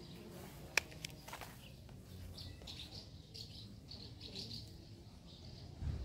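Birds chirping in short, repeated high twitters, with one sharp click under a second in and a low thump near the end.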